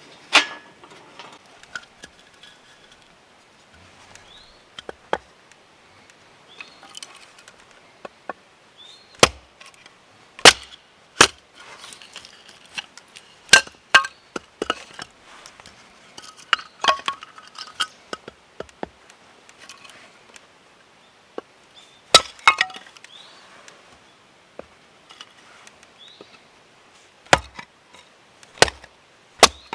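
Firewood being broken up: a series of sharp, irregularly spaced wooden knocks and cracks, some single and some in quick pairs.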